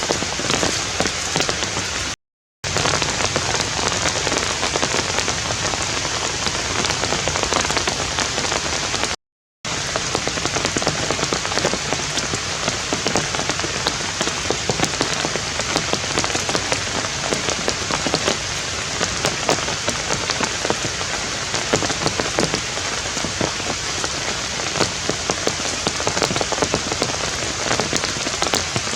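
Steady rain falling, with many separate drop hits close by. The sound cuts out completely twice for a split second, about two seconds in and about nine seconds in.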